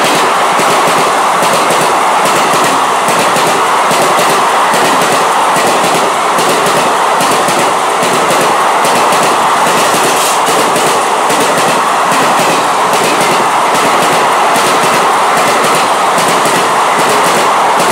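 ICF passenger coaches running through at speed: wheels clattering over the rail joints in a dense, fast clickety-clack over a steady loud rush of track noise.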